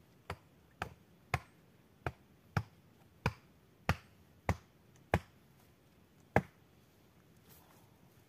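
A series of about ten sharp knocks, roughly two a second, ending a little after six seconds in.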